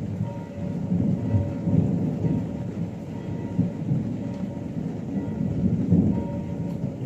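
Rolling thunder: a long, low rumble that swells about a second in, peaking around two seconds and again near the end, over steady rain.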